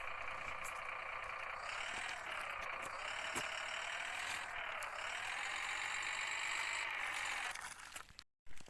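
A vehicle engine running steadily, its pitch dipping and rising slightly a couple of times.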